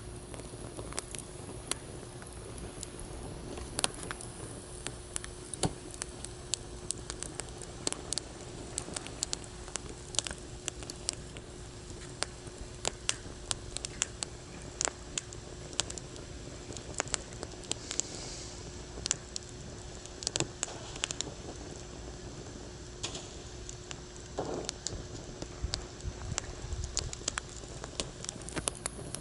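Wood campfire in a fire stand, crackling with many sharp irregular pops and snaps. A faint steady hum sits underneath.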